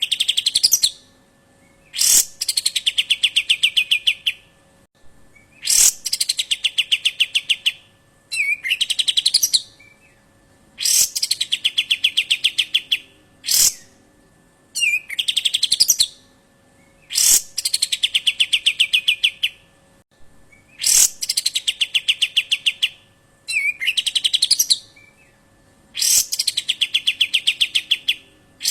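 A bird call phrase repeated over and over at even intervals of a few seconds: a sharp high note, then a fast rattling trill of many quick pulses lasting about two seconds.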